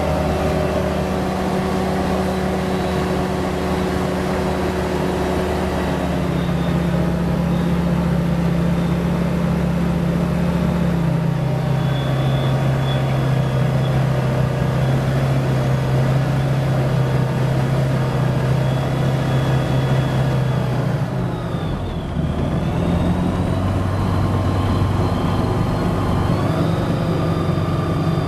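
Lightwing SP2000 ultralight's engine and propeller at a ground run-up at high revs, a test of whether the fine-pitch stop lets the prop reach 5,800 rpm. The engine note is steady, drops in pitch about eleven seconds in, dips briefly a little past twenty seconds, then climbs again.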